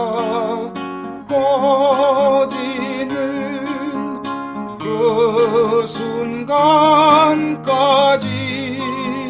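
Acoustic guitar playing a slow folk-song accompaniment under a held, wavering melody line, with new notes every second or so.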